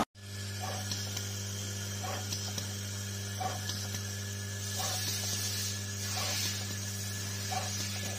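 A machine's steady electric hum, with a faint soft tick repeating about every second and a half.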